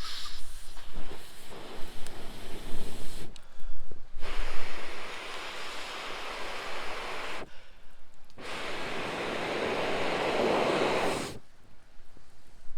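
Three long breath-like rushes of blowing, each about three seconds, with a clean stop and a pause of about a second between them.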